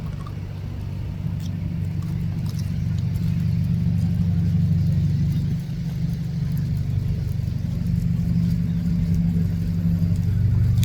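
A steady low vehicle-like rumble with a deep hum, growing slowly louder.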